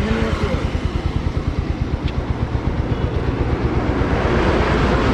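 Royal Enfield Hunter 350's 349 cc single-cylinder engine running under way with an even, rapid pulse, with wind noise on the microphone growing louder near the end.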